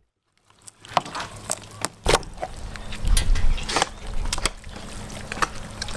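A knife cutting through a crocodile carcass to take off the tail while it is pulled apart: a run of scattered cracks, crunches and knocks, with heavier thuds in the middle.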